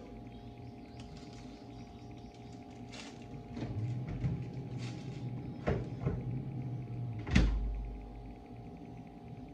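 A few sharp knocks over a low hum, then a heavy thump about seven seconds in: the freezer door being shut on the cake.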